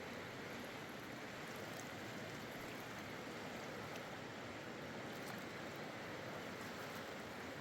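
Steady rushing noise with faint scattered ticks.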